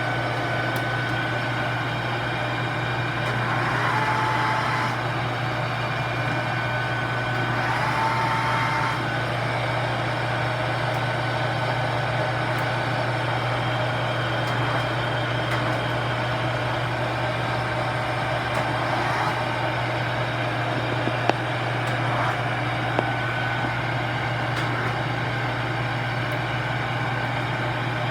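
Steady low mechanical drone with a constant hum, faint whining tones coming and going, and two sharp clicks about two seconds apart near the end.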